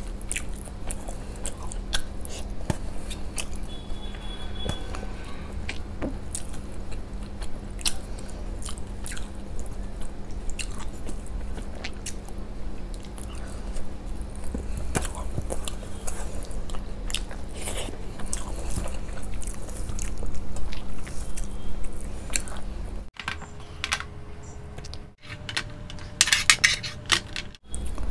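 Close-up chewing of rice and fish curry eaten by hand, with many small wet clicks and smacks of the mouth over a faint steady hum. Near the end comes a wet squishing as fingers mash rice into the curry.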